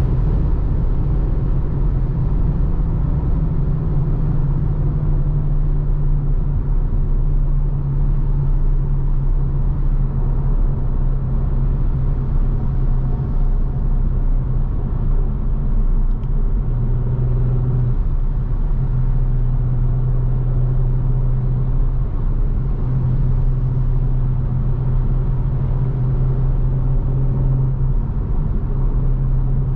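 Audi RS5 Sportback's 2.9-litre twin-turbo V6 running at steady cruising revs: a constant low drone over road rumble, the pitch shifting only slightly.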